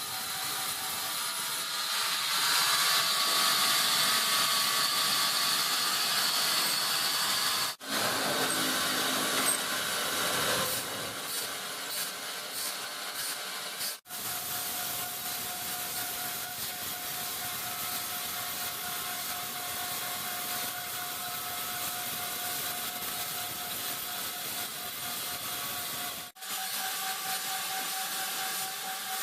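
Large sawmill saw cutting through wood, a steady grinding rasp that stops and starts abruptly three times. A steady whine runs under it in the middle stretch.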